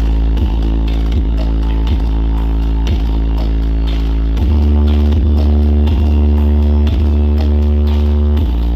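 Loud electronic dance music played through a giant horeg sound system, dominated by heavy sustained sub-bass with a beat about every 0.8 seconds. The bass swells louder a little before halfway and drops back shortly before the end.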